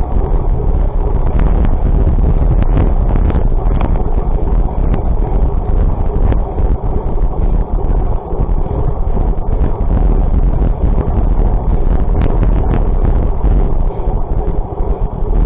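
Loud wind buffeting the microphone over a steady low rumble of travel, with scattered light clicks and knocks.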